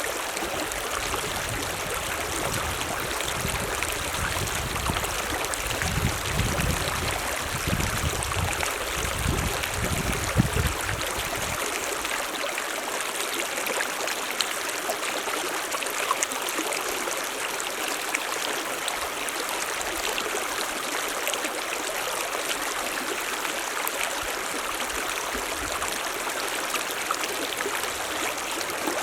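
Mountain stream running steadily, an even rush of water. A low rumble sits under it for about the first twelve seconds, then drops away.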